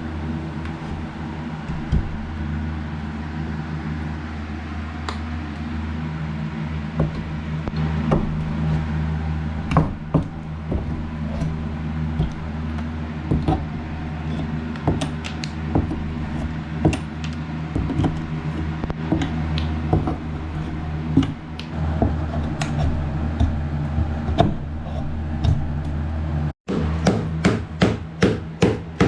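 Demolition work on an opened wall: irregular knocks, taps and scrapes as nails are pulled from the studs and old wall material is torn out, over a steady low hum. After a cut near the end, a run of quick, even hammer blows, about two or three a second.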